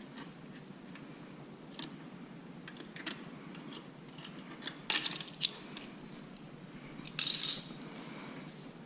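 Metal tools and small metal parts clinking and rattling as they are handled: scattered sharp clinks, a quick cluster about five seconds in and a brighter rattle a little after seven seconds.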